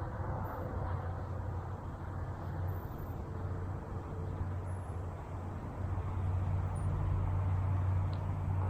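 A steady low mechanical hum over a noisy background, growing louder about six seconds in.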